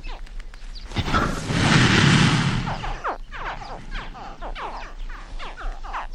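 A group of animals giving many quick, overlapping calls that slide down in pitch, with a loud rushing noise from about a second to three seconds in.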